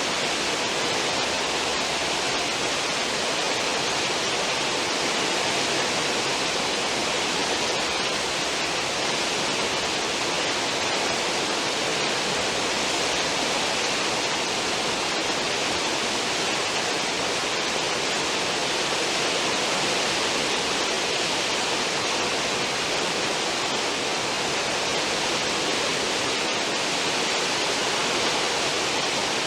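Steady rushing of churned water in a cruise ship's stern wake, an even noise with no breaks.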